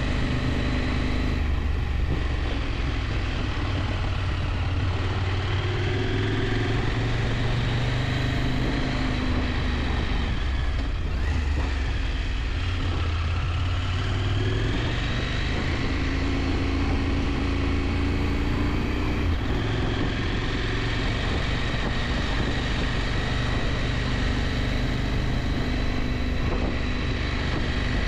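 KTM 890 Adventure's parallel-twin engine running under way, its note slowly rising and falling with the throttle over a steady low hum.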